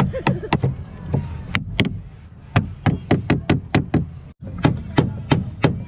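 A rapid series of sharp knocks, about three a second, from a tool striking wood during boat building, with a brief break a little past four seconds.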